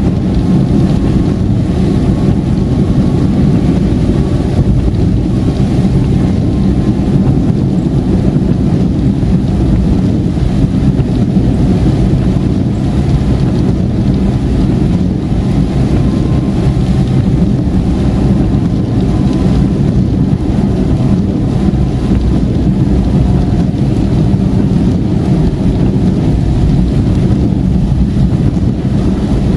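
Steady noise inside a moving car's cabin on a motorway in heavy rain: a low rumble of tyres on the wet road with the rain on the car, unchanging throughout.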